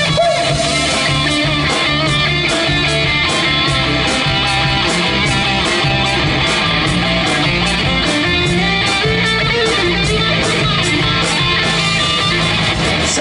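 Live band playing an instrumental break between sung verses: guitar over bass and drums with a steady beat.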